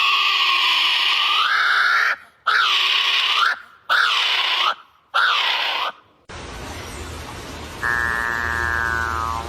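A bird's harsh, screeching call given four times, the first about two seconds long and the rest about a second each, with short pauses between. Then a different recording with a low steady hum, in which a drawn-out nasal call slowly falls in pitch.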